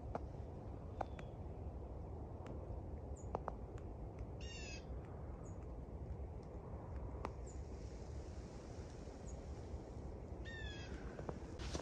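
A bird calls twice, each a short call of under half a second, about six seconds apart. Faint, brief high chirps come and go in between, over a steady low background rumble.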